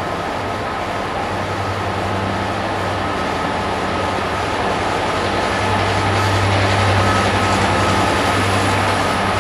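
Loco-hauled train of Mk3 coaches, led by a driving van trailer, running past on the adjacent platform line: a dense rail rumble over a steady low engine hum. It grows gradually louder, peaking a little past halfway as the coaches go by.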